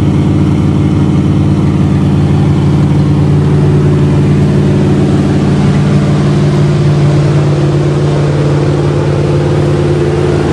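1976 Chrysler New Yorker's 400 V8 running steadily at its cold-start fast idle, the high idle typical of 1970s cars with automatic chokes.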